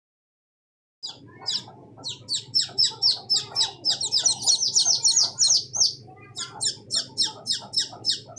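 Small birds chirping, a fast run of short high-pitched calls at about three or four a second that starts about a second in, over faint low background noise.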